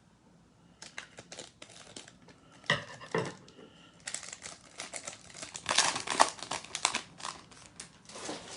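A stubborn trading-card pack wrapper being torn and crinkled open by hand, in irregular bursts of crackling that grow busier and louder over the last few seconds.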